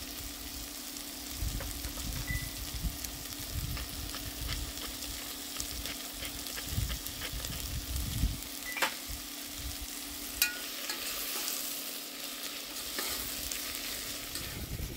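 Zucchini, onion and garlic sautéing in olive oil in a hot pot: a steady sizzle while the vegetables are stirred, with a couple of sharp knocks of the utensil against the pot.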